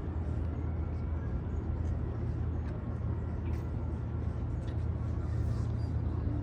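Steady low drone of an aircraft engine.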